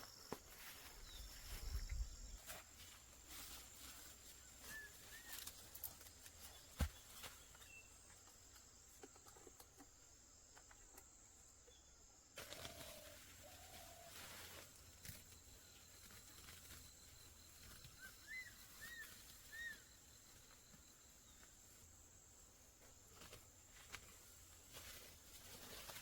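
Faint ambience: a steady high insect trill, likely crickets, with a few short, faint bird chirps and occasional light knocks.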